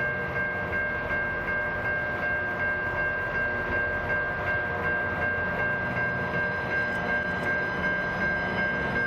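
Rail grinder working on the track, a steady high whine over a continuous rumble.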